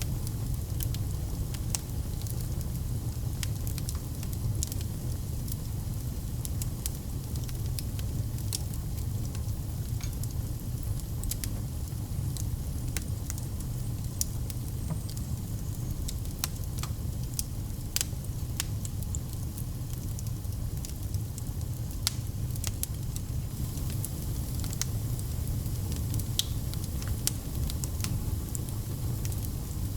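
Wood fire crackling in a fireplace: a steady low rumble of flames under frequent irregular sharp pops and snaps.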